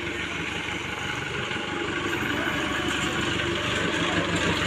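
A heavy vehicle's engine running steadily, slowly growing louder.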